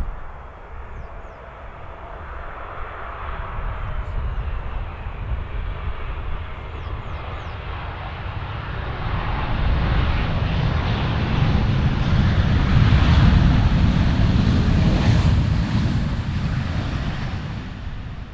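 Boeing 747 jet engines as the four-engined airliner passes close by: low, heavy jet noise that builds to its loudest about two-thirds of the way through, then fades.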